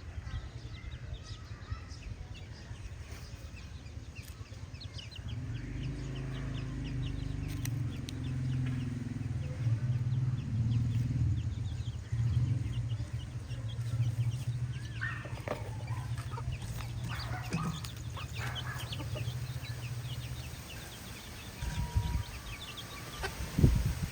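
Chickens clucking and peeping in a flock, over a low steady hum that comes in a few seconds in and fades before the end; two dull thumps near the end.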